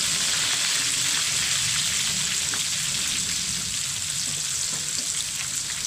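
Coated shrimp deep-frying in a pan of hot oil: a steady sizzle with fine crackling.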